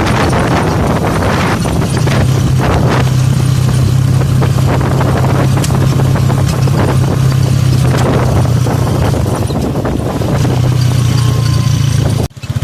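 A vehicle's engine running steadily on the move, a constant low hum under wind and road noise. The sound drops out suddenly for a moment near the end.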